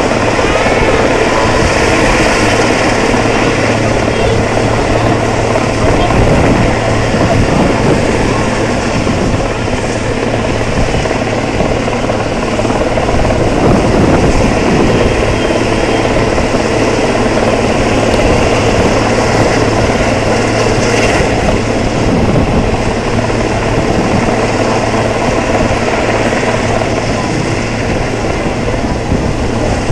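Helicopter flying, its rotor and engine running loud and steady.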